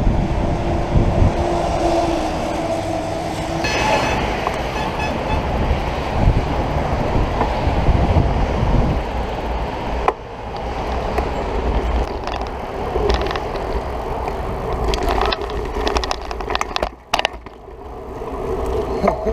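Rumbling ride noise from a camera on a moving bicycle: wind buffeting the microphone over the hum of tyres on the road. It drops away briefly a couple of times near the end.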